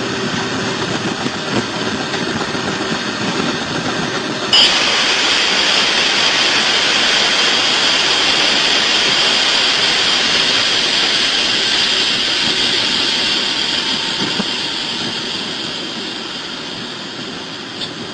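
Train running on the rails, a steady hissing rush of wheel and rail noise that turns suddenly louder and brighter about four and a half seconds in, then slowly fades near the end.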